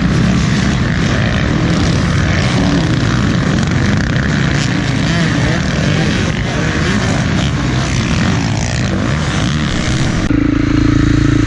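Several motocross dirt-bike engines running together, a dense buzz whose pitch keeps shifting. About ten seconds in it cuts abruptly to a steady low hum.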